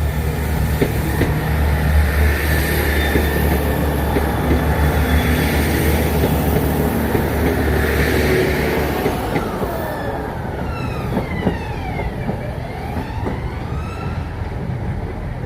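A diesel train passing at close range, with a steady low engine drone that drops away about nine or ten seconds in. A softer whoosh of a vehicle going by follows, its pitch sweeping down and up.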